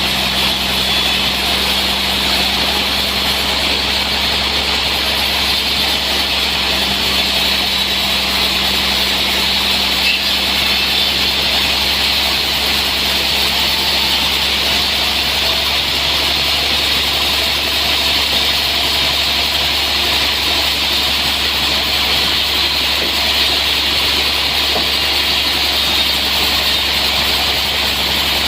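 Sawmill machinery running steadily: a constant low engine hum under a strong, even high hiss, with no change from start to end.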